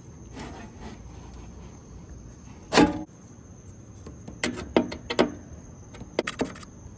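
Knocks and clanks of hands working on an outdoor a/c condenser unit while its capacitor is being swapped. There are about six sharp hits, the loudest about three seconds in and a quick cluster near the end, over a faint steady high whine.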